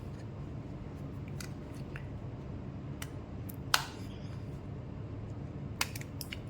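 Sharp plastic clicks and snaps from a Jio feature phone's plastic housing being pried apart during disassembly, the loudest snap about halfway through, over a steady low hum.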